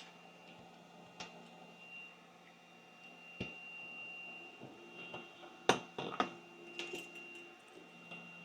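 Small tools clicking and tapping against a PS5 mainboard during soldering of the HDMI port's anchor points. The clicks are scattered, with the loudest pair about six seconds in. Under them run a faint steady high-pitched tone and a low hum.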